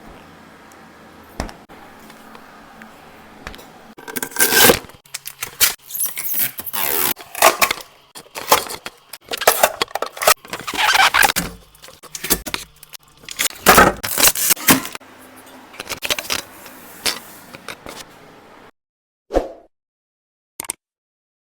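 Irregular rustling and scraping, packaging being handled during an unboxing, in uneven bursts that stop short about 19 seconds in.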